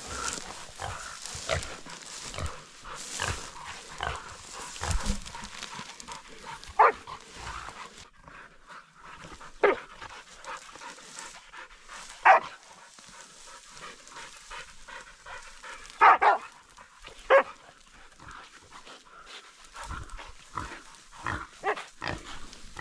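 Dogs barking in scattered single barks a few seconds apart, over a background of rustling movement.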